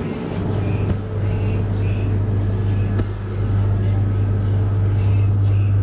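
Steady low rumble of wind and road noise on the microphone of a moving bicycle, getting a little louder about three seconds in.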